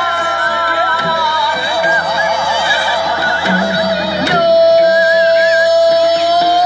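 Korean traditional (gugak) music: a single melodic line with wide wavering vibrato that settles into a long held note about four seconds in, with a few sharp percussive strokes.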